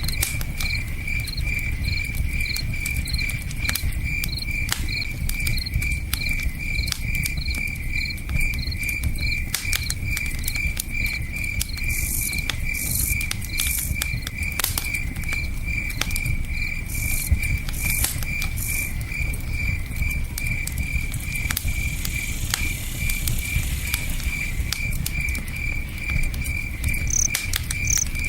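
Crickets chirping in a steady, even pulse over the scattered pops and crackles of a campfire, with a low rushing of river water underneath.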